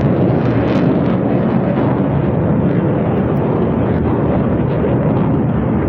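Aircraft engines passing overhead: a loud, steady rush of engine noise.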